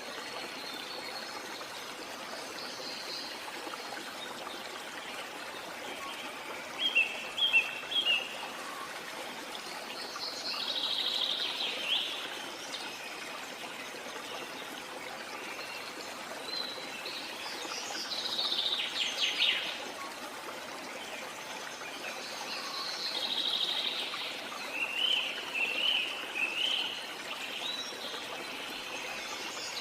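Steady rush of flowing water with birds calling over it several times: a quick cluster of short chirps about a quarter of the way in, then longer, louder calls at intervals through the rest.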